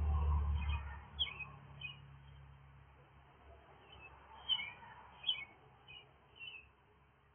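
Short, high bird chirps repeated every second or so, in small clusters. Under them is a low rumble that is loudest at the start and fades within about a second and a half.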